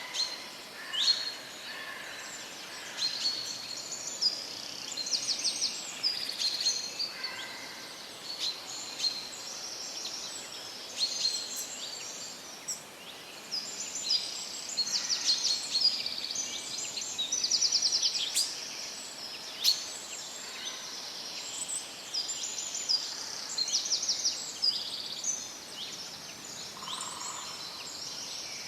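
Several songbirds singing and calling: many short chirps and quick trills, overlapping one another throughout, over a faint steady hiss.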